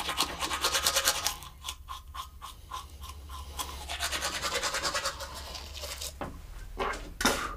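Toothbrush scrubbing teeth in rapid, scratchy back-and-forth strokes, easing briefly about two seconds in. It ends with a few separate, louder strokes, the loudest near the end.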